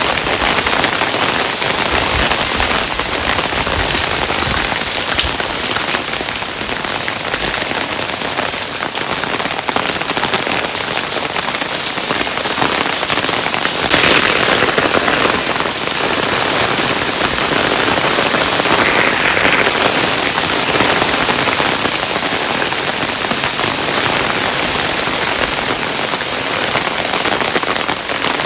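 Hailstones falling and pelting a hard surface: a dense, steady patter of many small impacts, a little louder about halfway through.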